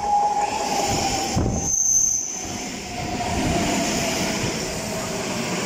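An EN57-type electric multiple unit passing close by, with the noise of wheels and running gear on the rails. A thin whine slowly falls in pitch throughout, and a brief high squeal comes about two seconds in.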